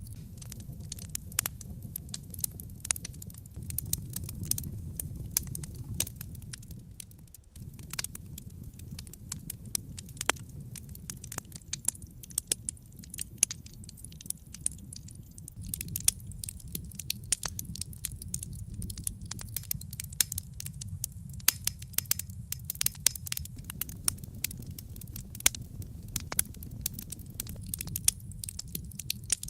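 Wood fire burning in a fireplace: a steady low rumble of flames with many sharp crackles and pops scattered throughout. The rumble briefly drops away about seven seconds in, then comes back.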